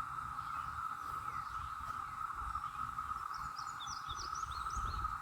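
A dense chorus of cicadas making one steady, unbroken drone. A bird chirps a quick run of short notes about three and a half seconds in.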